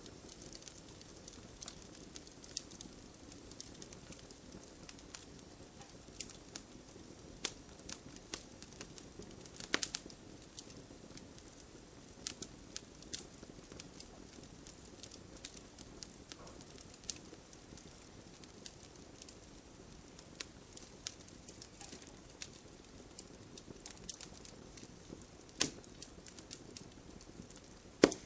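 Wood bonfire crackling, with frequent sharp pops scattered irregularly through it, the loudest near the end, over a steady patter of rain.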